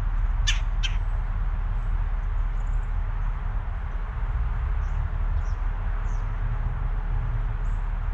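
Small birds chirping briefly and thinly here and there over a steady low rumble, with two sharp ticks close together about half a second in.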